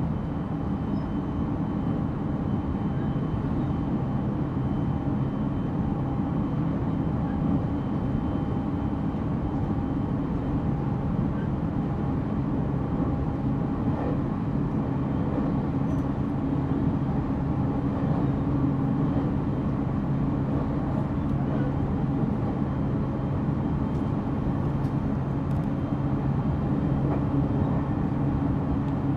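Interior running sound of a JR Central 313-0 series electric train motor car, rolling along at a steady speed with a constant low rumble and steady hum, heard inside the passenger cabin.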